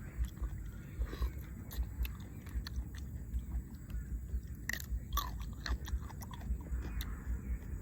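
A person chewing a mouthful of food close to the microphone, in a steady rhythm of two or three chews a second, with a couple of sharp crunches about five seconds in.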